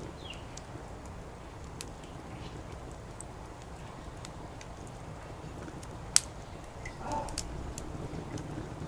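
Wood fire crackling: scattered sharp pops from the burning firewood, one much louder pop about six seconds in, over a steady low background rumble.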